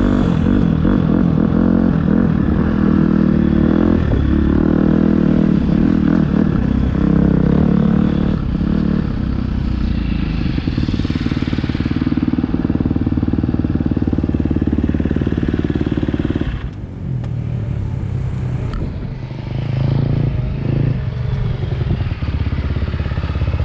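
Motocross bike engine revving up and down through the gears as it is ridden on a dirt track. About two-thirds of the way in, the revs drop to a low, slower-running note.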